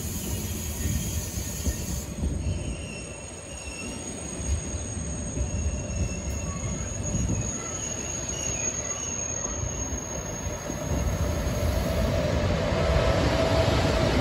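Double-deck TGV inOui train rolling slowly past, wheels rumbling with thin, intermittent squeals from wheel and rail. About three quarters of the way in it gets louder and a steady hum comes in as the power car draws level.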